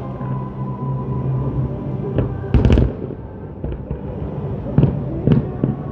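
Aerial fireworks shells bursting in a string of separate booms and cracks, the loudest about two and a half seconds in.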